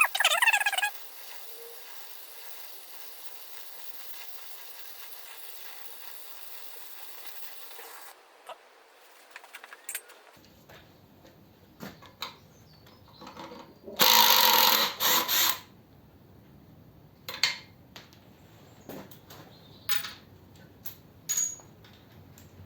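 Oxy-propane cutting torch flame hissing steadily, then cut off about 8 seconds in. After that come scattered metallic clicks and clinks of a spanner working loose heated exhaust manifold nuts, with one louder rasping noise lasting about a second and a half midway.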